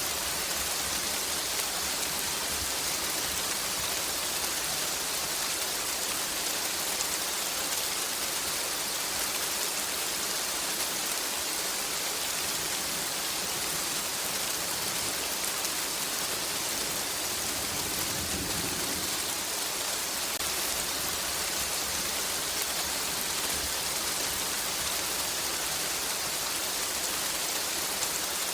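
Steady heavy rain, an even hiss of rain falling on surfaces, with a brief low rumble about eighteen seconds in.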